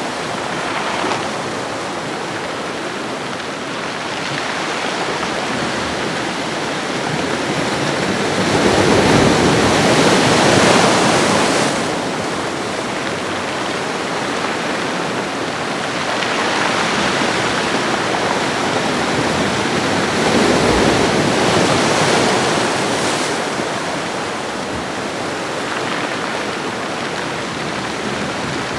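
Ocean waves washing along a shoreline as a continuous rushing wash. It swells louder twice, about a third of the way in and again about two-thirds in, then eases back.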